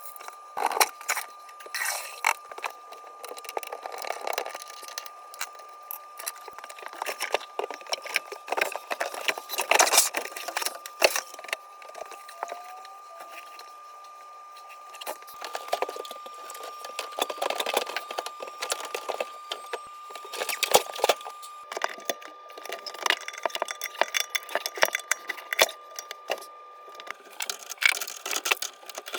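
Clinks, clicks and knocks of hand tools and metal parts being handled during plumbing work, irregular and without letting up, over a thin steady tone.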